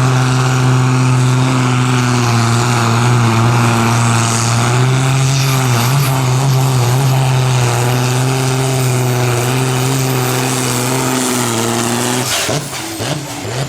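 Pulling tractor's engine running loud at steady high revs, its pitch nearly constant, then cutting off about twelve seconds in, leaving scattered clicks and noise.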